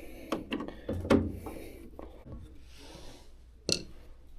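A few short knocks and clicks of handling, the loudest about a second in and another near the end.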